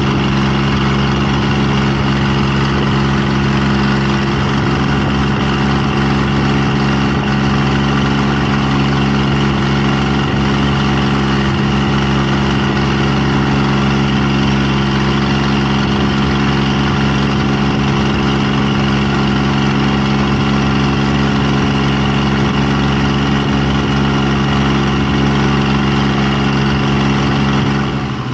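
An engine running steadily and loudly at one even pitch, with a low hum that does not rise or fall; the level dips briefly right at the end.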